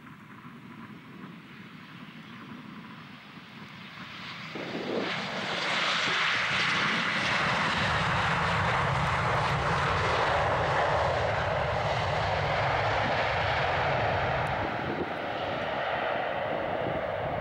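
Boeing 737-700 jet airliner's CFM56 turbofan engines, faint at first, then growing loud about four and a half seconds in as it flies past on approach, holding loud and easing slightly near the end.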